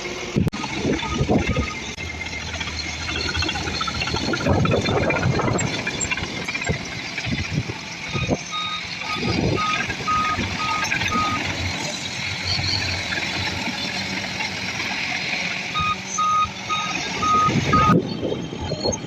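A heavy machine's reversing alarm beeps at one steady pitch, about twice a second, in two runs. Under it a diesel machine works with rising and falling engine noise.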